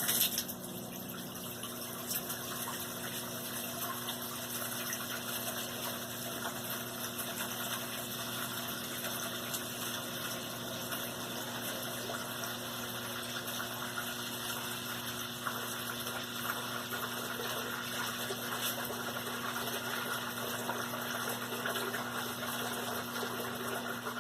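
Washing machine's drain pump running steadily with a low hum while water flows through it.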